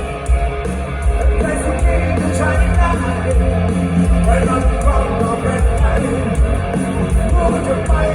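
Live rock band playing loudly, with drums driving a steady heavy beat.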